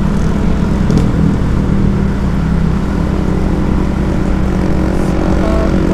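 Steady low drone of a vehicle's engine running while under way, mixed with road noise.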